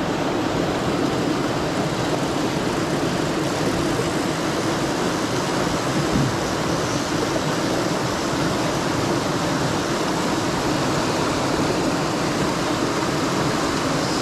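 Mountain stream rushing steadily, swollen with rain and snowmelt.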